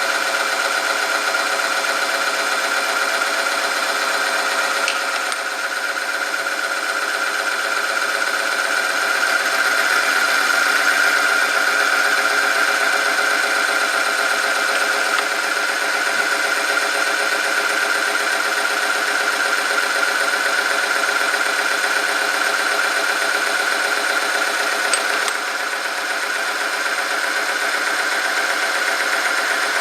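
Oil-film test machine running: its electric motor drives a rotating steel part against a test sample in oil, giving a steady, loud whine with a high tone. There are brief clicks with a slight dip in the sound about five seconds in and again near the end.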